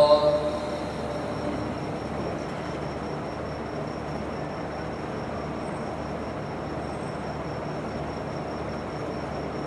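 Steady background hum and hiss of a large prayer hall, with a faint constant high tone, during a silent part of the prayer. A short voiced sound is heard at the very start.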